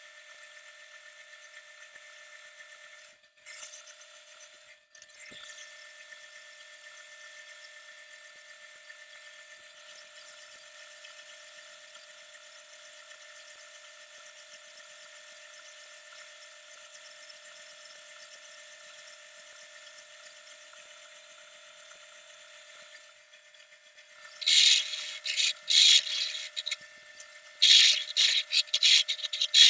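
Wood lathe running with a steady whine, then near the end loud rubbing against the spinning wood in repeated stop-start strokes.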